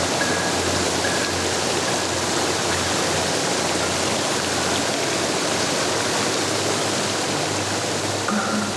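Steady rushing noise of flowing water, like a stream or small waterfall, over a faint low synth drone; a few short high synth notes come in near the end.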